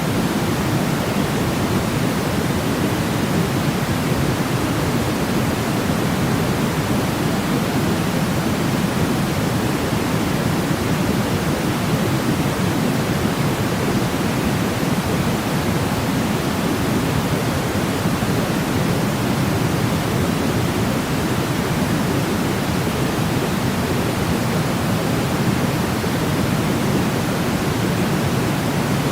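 Continuous white-noise sleep track: an even, unchanging rush, heavier in the low end than the high.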